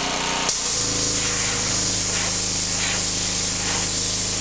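Gas-engine pressure washer. About half a second in the trigger opens, and a high-pressure water jet hisses steadily over the engine's hum as it blasts loose paint off the barn's wooden siding.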